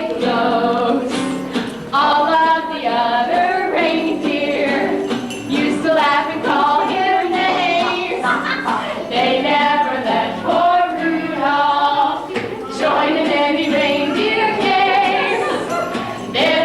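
A group of voices singing a song together with musical accompaniment.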